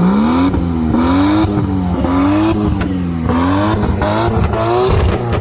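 Car engine being revved over and over, its pitch climbing and dropping about once a second.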